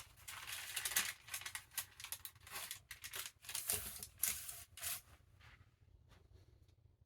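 Paper pages of a large book rustling and crinkling as they are handled and turned, in irregular bursts that die down after about five seconds.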